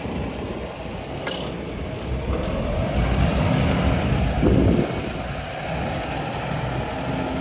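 Cummins ISX diesel engine of a truck tractor running, its pitch rising and growing louder as it is revved about two to three seconds in. A short rush of noise comes about four and a half seconds in.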